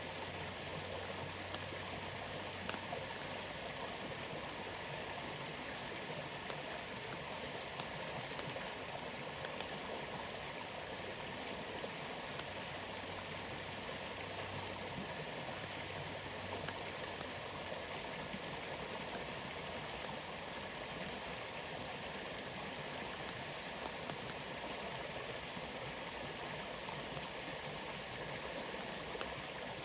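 Waterfall's steady rush of falling water, an even, unbroken noise, with faint scattered ticks.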